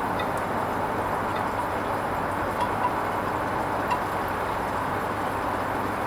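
Hoover Vision HVP16 washing machine running mid-cycle on its Silks programme: a steady even noise with a low hum and a few faint small clicks.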